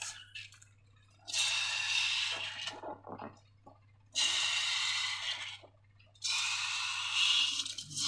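Slime squeezed out of a balloon, in three long wet squeezes of about a second and a half each, with short crackles between them.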